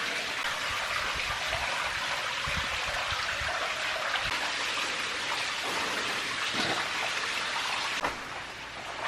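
Creek water running and splashing through a narrow rock gorge, a steady hiss. A knock about eight seconds in, after which the water sounds quieter.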